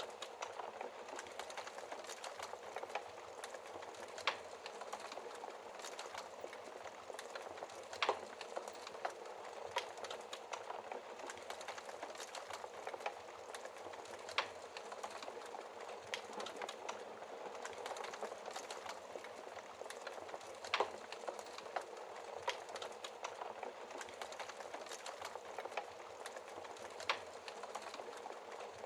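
Wood fire crackling in a fireplace: a steady hiss of burning logs with many small crackles and a few louder pops every four to six seconds.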